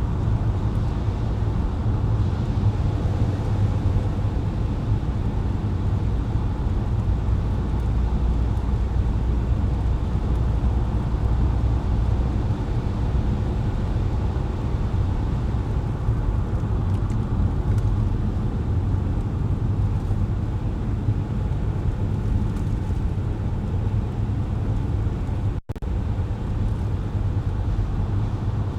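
Car driving on wet, slushy city streets: a steady low rumble of road and engine noise, with a split-second dropout in the sound near the end.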